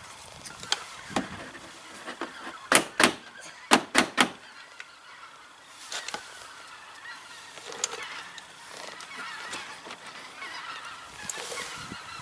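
Sharp clicks and knocks, five loud ones in quick succession from about three to four seconds in, as the plastic mud guard and its clips are worked into place with channel-lock pliers. Geese honk in the background through the second half.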